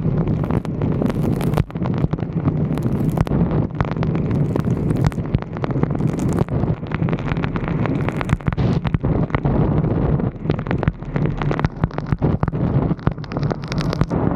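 Wind buffeting the microphone of a roof-mounted 360° camera in rough, irregular gusts over a steady low rumble.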